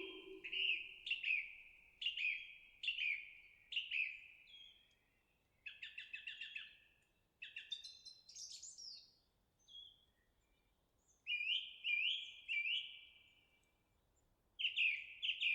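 A songbird calling in runs of short, downward-slurred chirps, about two a second. The runs are broken by a quicker trilled burst and some higher notes in the middle, with short pauses between them.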